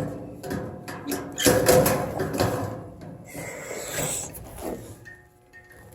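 Sheet-metal duct fitting being handled and worked: irregular clanks and knocks with some ringing, and a stretch of metal scraping about three seconds in.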